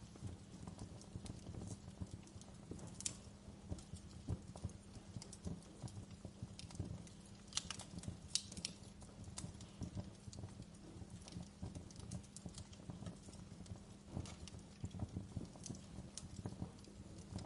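Wood fire crackling steadily over a low rumble, with irregular snaps and a few sharper, louder pops near the middle.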